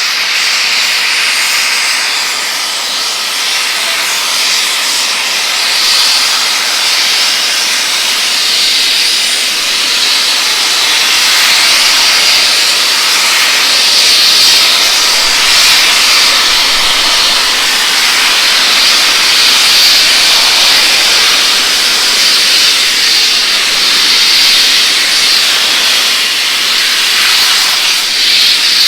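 Bulleid Pacific steam locomotive No. 34053 venting steam in a loud, steady hiss.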